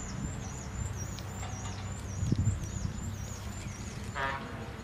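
A bird repeating a short, high, hooked chirp about twice a second. A soft low thump comes about two and a half seconds in, and a brief pitched animal call about four seconds in.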